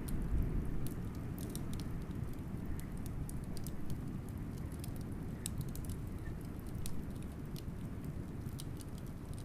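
Wood fire crackling, with frequent irregular sharp pops, over a steady low rumble of blizzard wind.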